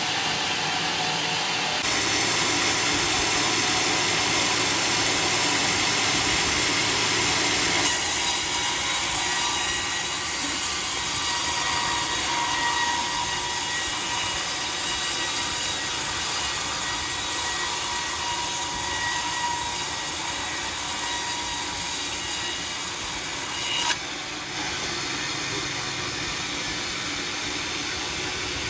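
Sawmill blade running through a log in a long, steady cut. The sound grows louder and brighter a couple of seconds in, then drops suddenly near the end as the cut eases off.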